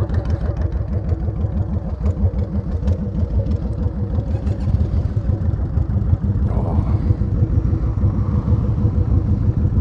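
Honda VTX1800's big V-twin engine running steadily under way, a continuous low pulsing rumble.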